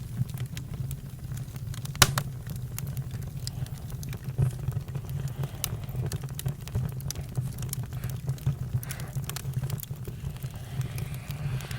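Campfire crackling: irregular sharp pops and snaps, one louder pop about two seconds in, over a steady low rumble.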